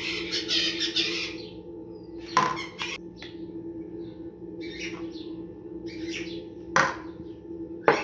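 Small birds chirping in short repeated bursts, with sharp metallic clinks of a stainless-steel ladle against the metal bowl or funnel about two and a half seconds in, near the end, and again right at the close.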